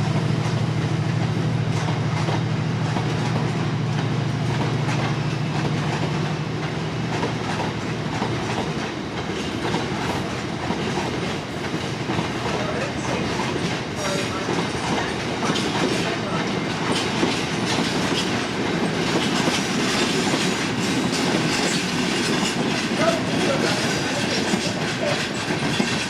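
A Class 68 diesel-electric locomotive passes with its engine running steadily, the engine sound fading after about eight seconds. A long train of aggregate wagons follows, rattling by with wheels clicking over rail joints and a few brief wheel squeals.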